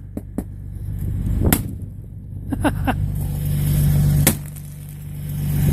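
Several sharp, separate knocks on an ice-crusted ATV cover, the ice shell sounding hollow underneath. A steady engine hum runs beneath them.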